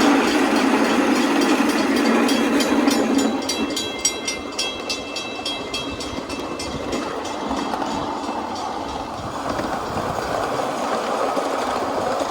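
A 7¼-inch-gauge miniature live steam train running by, with a rapid, regular clicking of about four beats a second over a steady rumble. A low hum in the first few seconds stops about three and a half seconds in.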